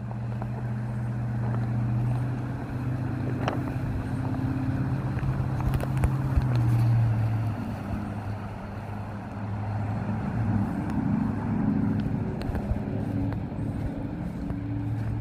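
An engine running steadily with a low hum, its pitch wavering briefly about two-thirds of the way through.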